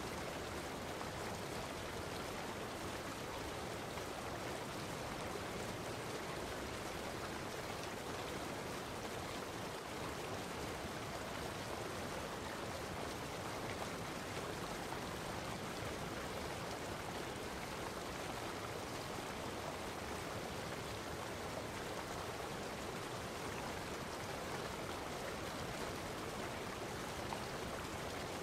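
Steady, unbroken rushing of running water, even in level throughout.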